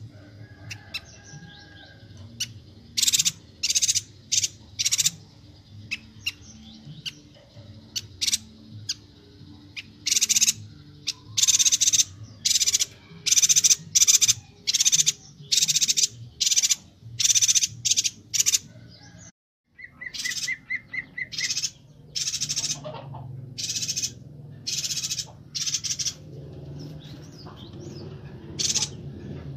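Chestnut-crested yuhina calling: a rapid string of short, harsh, high-pitched calls coming in quick runs, with a brief dropout about 19 seconds in.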